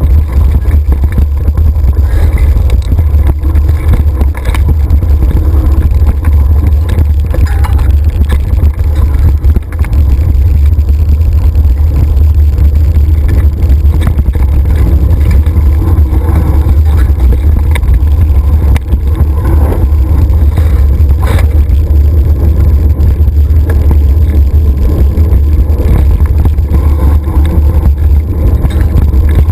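Wind buffeting the microphone of a camera on a moving mountain bike: a loud, steady, deep rumble throughout, with fainter trail and tyre noise beneath it.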